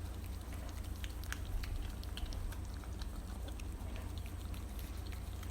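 A dog licking whipped cream out of a small cup: a run of quick, irregular licking clicks and smacks over a steady low hum.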